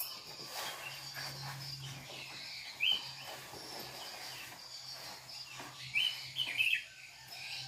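A few short bird chirps, each a quick upward sweep in pitch: one about three seconds in and a quick run of three near the end. Behind them, steady cricket chirring and a low hum.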